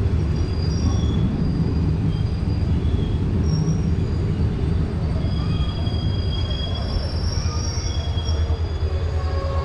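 A passenger train running on the track: a steady low rumble with short, faint high-pitched wheel squeals coming and going.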